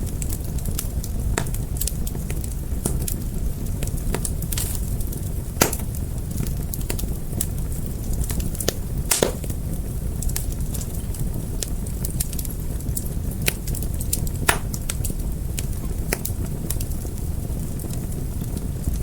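Fire crackling: a steady low rumble of flames with frequent sharp snaps and pops, the loudest a few seconds apart, about six, nine and fourteen seconds in.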